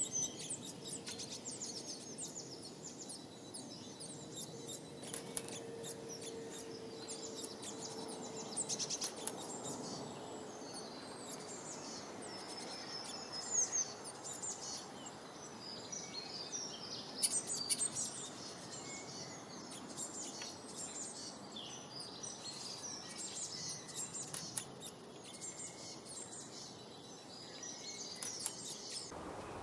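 Many small songbirds chirping and trilling at once in quick, overlapping bursts, over a steady background hiss.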